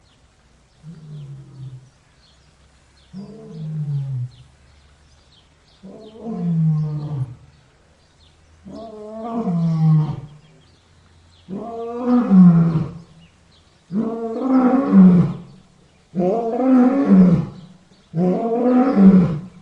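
Lion roaring: a series of about eight deep roars, each falling in pitch, growing louder and longer, and following one another more closely as the bout builds.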